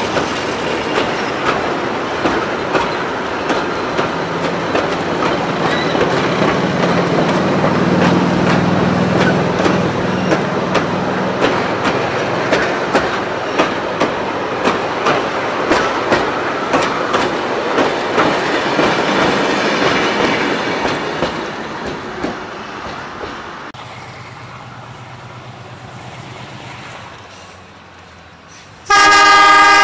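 Passenger carriages rolling past close by, their wheels clicking regularly over rail joints with a few brief wheel squeals. Then a quieter low hum from a distant diesel locomotive, and near the end a loud blast of the diesel locomotive's horn.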